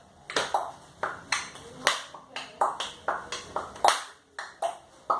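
An irregular series of short, sharp taps with a slight ring, about three a second.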